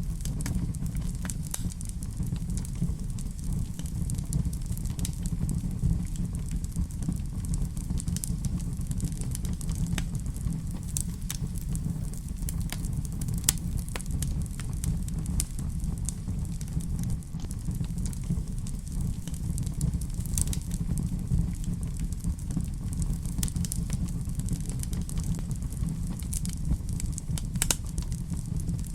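Fireplace fire crackling: a steady low rumble with sharp pops and crackles scattered irregularly throughout.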